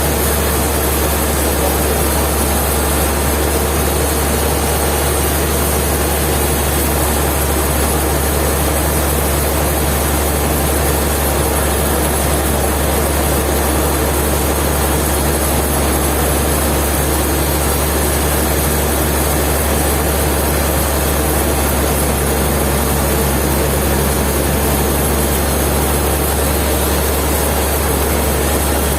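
A heavy engine or machine running steadily with a strong low hum, unchanging throughout.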